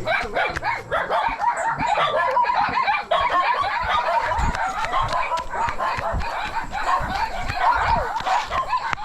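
Many farm animals calling over one another in a dense, unbroken chorus of short, high calls.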